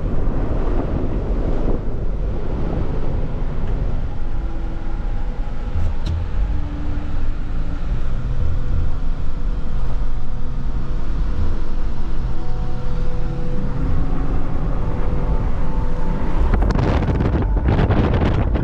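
2018 Jeep Wrangler JK's 3.6-litre V6 driving through snow: a steady low engine and drivetrain rumble with tyre noise and wind buffeting the microphone. The rushing noise swells louder near the end.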